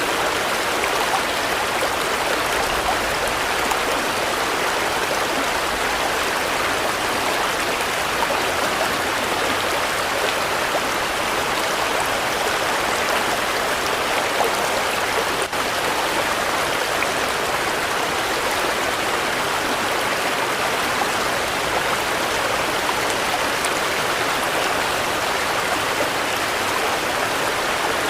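Steady rainfall: an even, unbroken hiss of falling drops.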